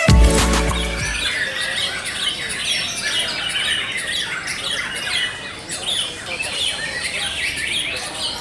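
Many caged white-rumped shamas (murai batu) singing at once: a dense, overlapping chorus of chirps and whistles. A music track ends abruptly about a second in.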